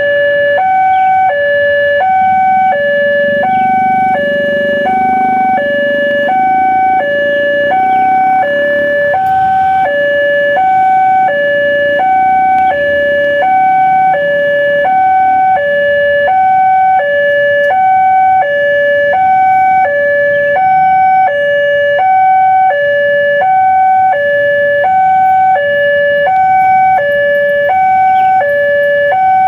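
Railway level-crossing warning alarm sounding: an electronic two-tone signal alternating steadily between a lower and a higher note, about a second and a half per pair. A low rumble underneath swells a few seconds in and fades away.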